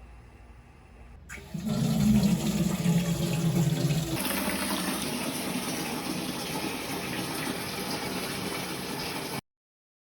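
Water rushing loudly, deeper at first and brighter from about four seconds in, cut off abruptly near the end.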